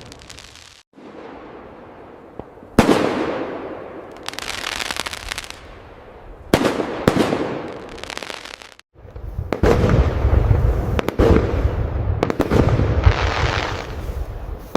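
Fireworks going off. A sharp aerial bang about three seconds in and another at six and a half seconds, each followed by crackling. From about nine seconds there is a dense run of crackling bursts over a low rumble.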